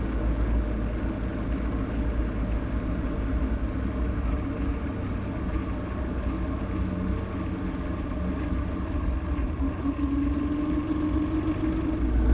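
Motorbike engine running steadily while riding, with a heavy low rumble; the engine note rises a little near the end.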